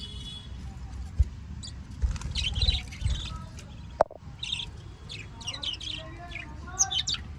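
Small birds chirping and tweeting in short repeated bursts, with two sharp clicks and a low rumble underneath.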